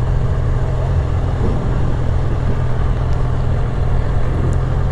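Yamaha R6 sport bike's inline-four engine running steadily at low revs while rolling slowly.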